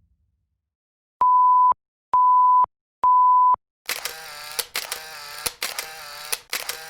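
Three identical steady, high-pitched electronic beeps, each about half a second long and evenly spaced. About a second after the last beep, a rapid run of sharp clicks begins, each with a brief metallic ring.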